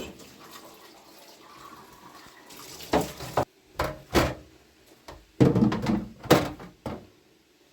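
Water running and splashing, then a run of sharp knocks and clatters from about three seconds in, as of vessels or dishes being handled.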